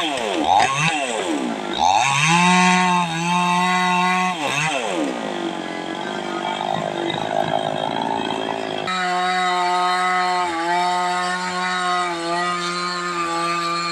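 A 260-horsepower tractor's engine revving, its pitch dropping and climbing again several times in quick succession, then holding a steady high pitch from about nine seconds in.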